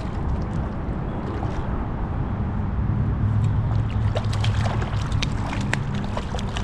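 Creek water sloshing and splashing as a small hooked trout is played toward the net, with short sharp splashes and clicks growing frequent from about three seconds in, over a steady low rumble.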